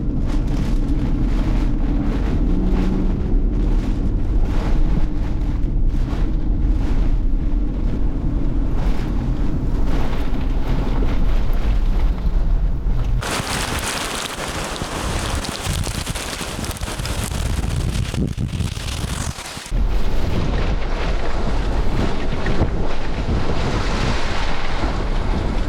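Rear-flank downdraft wind and rain blasting in through an open car window, buffeting the microphone with a deep rumble. About halfway through it turns for several seconds into a loud, even hiss, then the rumble returns.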